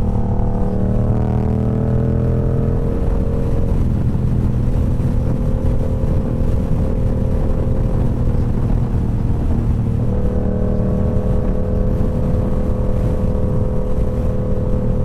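Motorcycle engine running at a steady road speed over constant rushing noise. The engine note rises gently in the first few seconds, sags slightly, then steps up about ten seconds in and holds.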